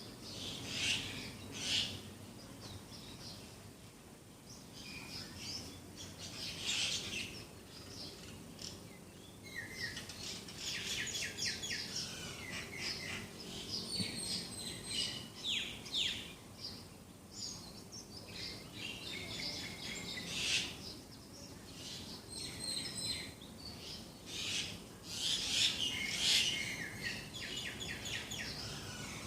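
Several songbirds singing and calling together: clusters of quick high chirps and trills that come and go, over a steady low background rumble.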